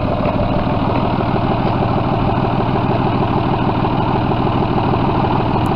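2001 John Deere 5205 tractor's diesel engine running steadily at idle.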